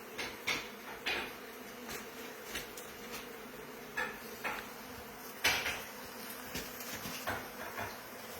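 Honeybees buzzing steadily around an opened wall hive, with a scattering of sharp knocks and clinks from handling, the loudest about five and a half seconds in.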